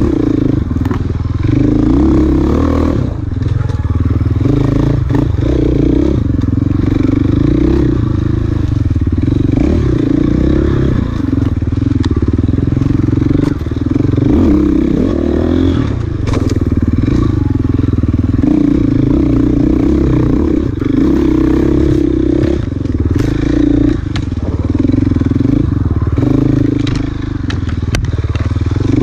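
Dirt bike engine running hard, revving up and down with the throttle, with brief dips where the throttle is rolled off. Scattered clatter and knocks come from the bike going over rough ground.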